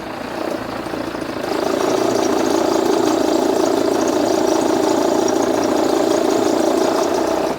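Jeep Renegade engine running in gear with a very loud, steady noise from the accessory belt drive, which swells about a second and a half in. The noise comes from a seized overrunning (one-way clutch) alternator pulley, which also wore the auxiliary belt's ribs.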